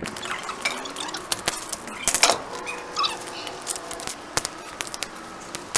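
Dry sticks snapping and clattering as they are broken by hand and tossed onto a pile of firewood: a run of sharp, irregular cracks.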